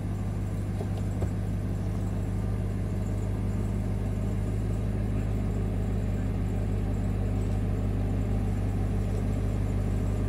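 A vehicle engine running steadily at low revs, a low, even drone with no revving.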